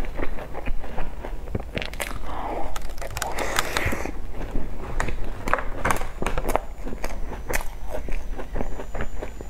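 Close-miked eating of soft cream puffs: wet chewing with many sharp lip-smacking clicks, and a softer squishing patch a few seconds in.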